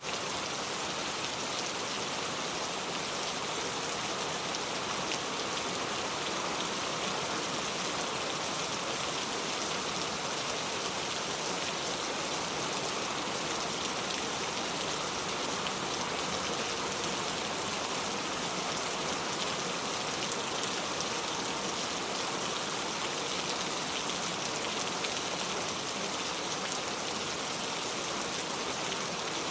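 Steady rainfall, a continuous even hiss of drops pattering on surfaces.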